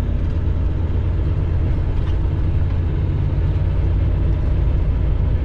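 Steady low rumble of a semi truck's diesel engine and road noise, heard from inside the cab while cruising on the highway.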